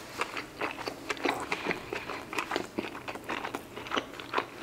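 Close-miked chewing of a bite of fried chicken sandwich: irregular short wet clicks and smacks of the mouth, several a second.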